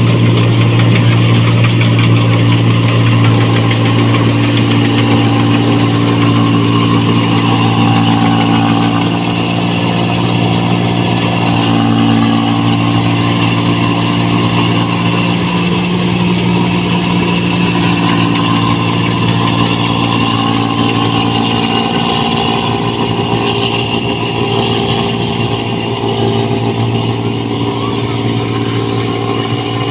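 Diesel engine of a New Holland 1545 rice combine harvester running steadily, a deep even drone through its loud exhaust.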